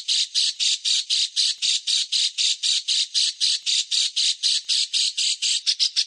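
A bird's harsh, rasping call repeated rapidly, about five notes a second, a little quicker near the end, played from a songbird training recording (masteran).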